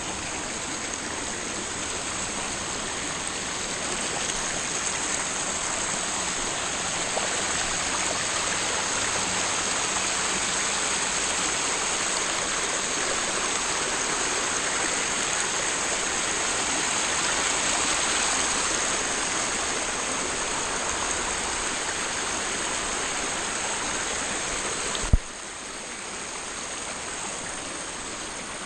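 Rushing river water, a steady even wash of sound. Near the end a single sharp click, after which the sound carries on slightly quieter.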